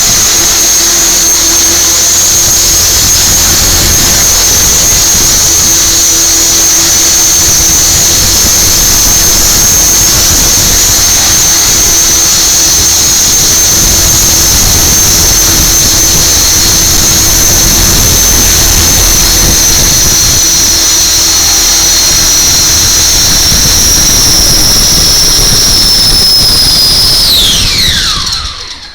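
450-class RC helicopter in flight: a steady high-pitched whine of the motor, gears and spinning rotor. Near the end the pitch falls as the rotor spools down, and the sound stops.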